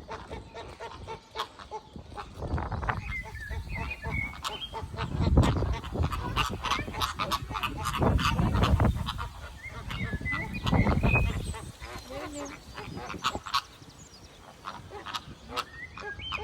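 Birds calling, with short chirping calls, many sharp clicks and a few loud low rumbles.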